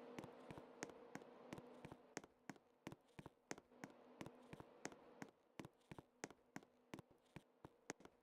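Faint, sharp clicking, about three clicks a second, over near silence.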